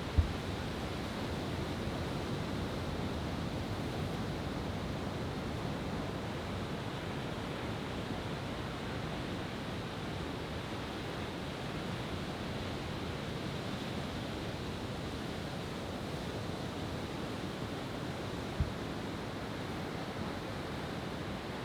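Steady wash of ocean surf, a continuous even rushing noise, with two short low thumps: a loud one right at the start and a fainter one near the end.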